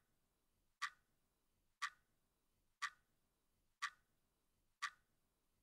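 Countdown-timer sound effect: five short ticks, one each second.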